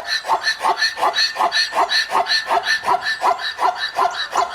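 An animal call repeated rapidly and evenly, short yelping barks about five a second.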